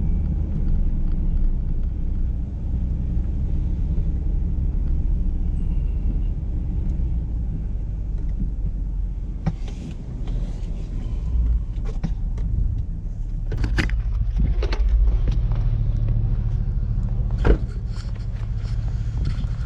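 A vehicle running with a steady low rumble. From about halfway through, scattered knocks and clicks come in, with a sharp knock near the end.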